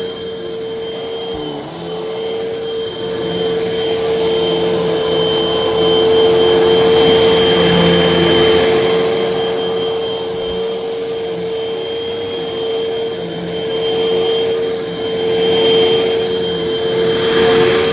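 Hoover vacuum cleaner running with a steady motor whine over a rushing airflow, getting louder and softer every few seconds as it is pushed back and forth.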